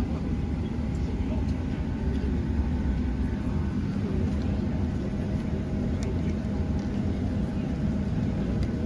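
Steady low rumble of cabin noise inside a Boeing 737-900 airliner, with a faint steady whine above it.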